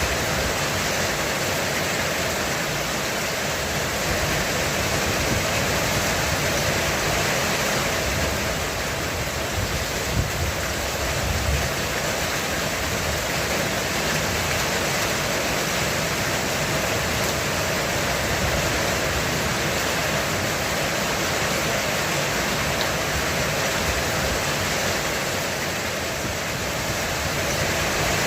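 Heavy rain falling steadily on a roof, an even hiss of dense drops. About ten seconds in, a low thunder rumble swells briefly under the rain.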